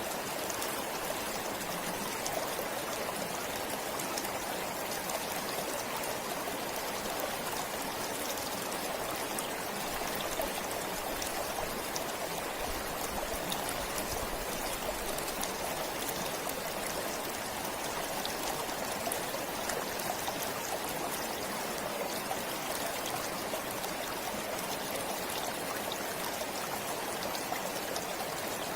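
A forest stream flowing steadily, water rushing and trickling over stones.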